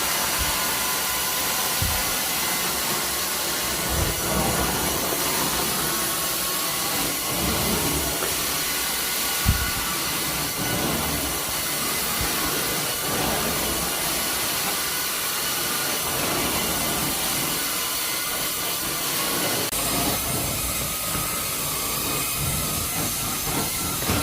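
Steady, loud rushing hiss of carpet-cleaning suction equipment working a carpet, with scattered knocks and a sharp thump about nine and a half seconds in.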